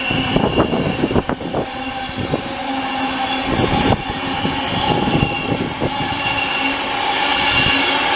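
Electric train running past, its wheels clattering over the rail joints, with a steady electric hum underneath.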